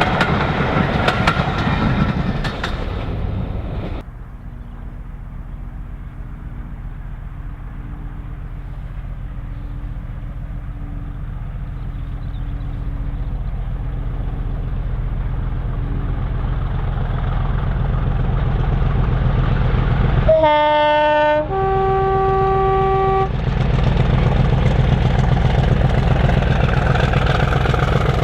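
Diesel locomotive running on a heritage railway: a clattering train sound gives way abruptly, about four seconds in, to a steady low engine rumble that slowly grows louder as the locomotive approaches. About two-thirds of the way through it sounds a two-tone horn, a short lower note followed by a longer higher one, and the engine runs louder afterwards.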